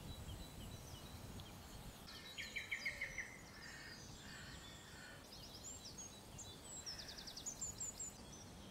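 Faint songbird song: short, rapid series of high chirps and trills, once about two seconds in and again near the end, over a faint steady hiss.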